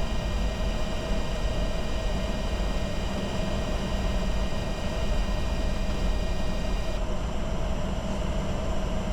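Steady flight-deck noise of a Bombardier Challenger 605 jet in descent: rushing airflow and the drone of its rear-mounted turbofans, with a low rumble and thin steady high tones. The high hiss dims about seven seconds in.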